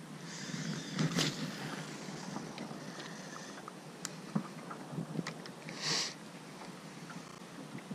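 Quiet open-air ambience with light wind on the microphone, scattered small clicks and two short whooshes, about a second in and near six seconds.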